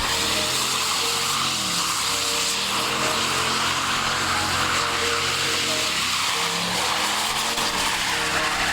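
Vehicle engines running, their pitch rising and falling as they rev, over a dense steady noise.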